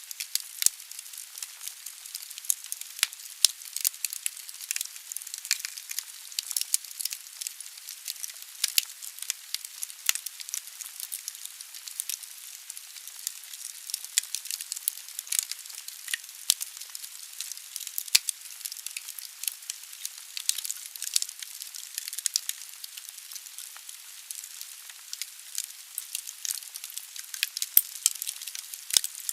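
Wood fire burning in a fireplace: logs crackling with frequent sharp pops over a steady hiss.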